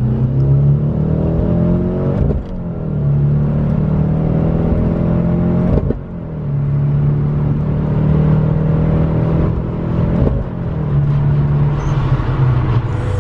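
Car engine accelerating through the gears: the engine note climbs, then dips briefly with each of three upshifts, about two seconds in, six seconds in and ten seconds in.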